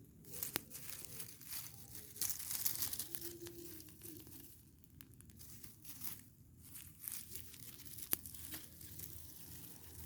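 Irregular crackling and rustling from a burning rubbish pile, with a few sharp snaps.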